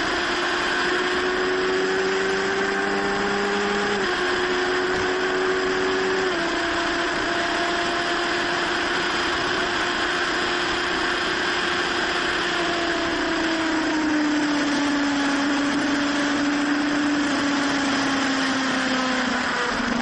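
Car engine running under a steady rush of road noise. Its pitch climbs slowly, then drops abruptly twice, as at upshifts, and later sinks gradually as the car slows.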